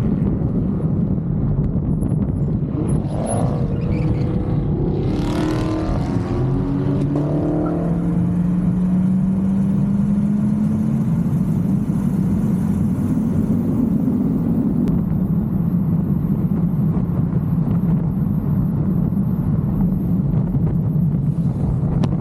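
V8 muscle car engine running under way, its pitch climbing steadily for several seconds as it accelerates, then holding at a steady drone.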